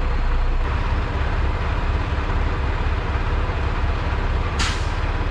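Semi truck's diesel engine and road noise, heard from inside the cab while it drives at speed: a steady, loud low drone, with a brief hiss about four and a half seconds in.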